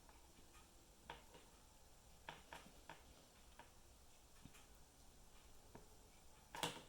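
Faint, scattered clicks and taps of a paintbrush working acrylic paint onto a glass pane, with a louder knock near the end.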